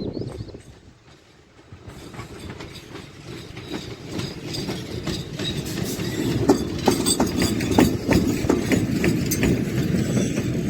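Freight train passing, its wheels clattering over the rail joints. After a brief lull, the rumble builds from about two seconds in, with the clicks getting louder and closer together.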